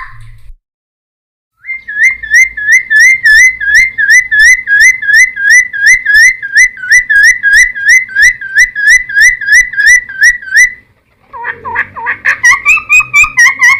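Cucak timor singing: a long run of identical whistled notes, about three a second, then after a short pause a faster, more varied phrase near the end.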